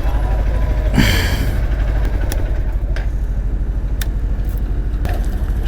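Motorcycle engine idling steadily, with a short hiss about a second in and a few light clicks.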